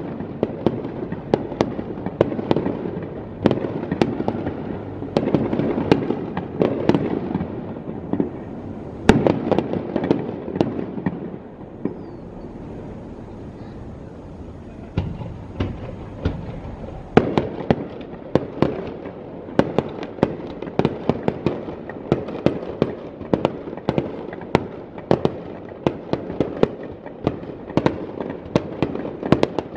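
Aerial firework shells bursting in a rapid, continuous series of bangs. About twelve seconds in they thin to a lull of a few fainter pops, then pick up again around seventeen seconds with steady bangs, roughly two a second.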